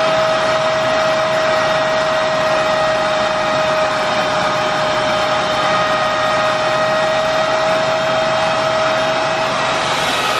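Miele S8310 canister vacuum cleaner's 2200-watt motor running at a steady pitch, a high whine over a rush of air, while its airflow is measured. Just before the end the whine dips slightly in pitch.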